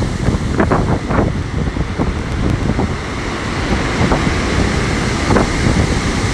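Strong wind buffeting the microphone in gusts, over the surf of a stormy sea.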